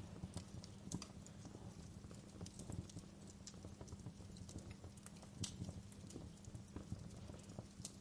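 Wood fire burning in a fireplace: a soft low rumble of flames with irregular crackles and sharp pops of burning wood, a few louder snaps scattered through.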